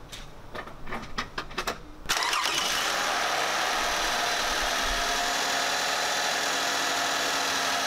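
A few faint clicks, then about two seconds in a Toyota 2GR-FE 3.5 V6 cranks briefly, catches on the first try and settles into a steady idle.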